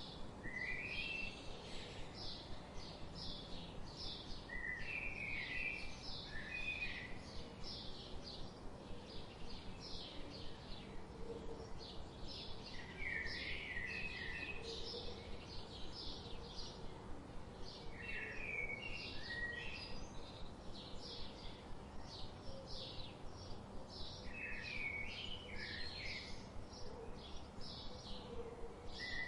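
Birds chirping: a stream of short, high chirps repeating a few times a second, with a lower warbling phrase breaking in every few seconds.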